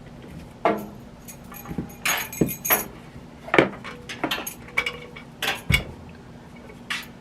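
Kitchen handling noises: a string of sharp knocks, clicks and metal clinks as utensils and containers are moved about on the counter, over a faint steady hum.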